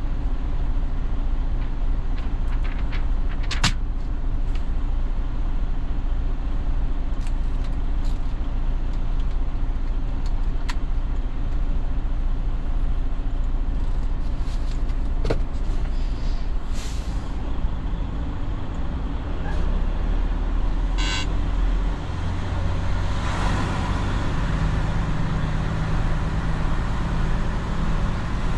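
Semi-truck diesel engine idling steadily, with a few sharp clicks. About 22 seconds in the engine note rises and strengthens as the truck pulls forward in the lane.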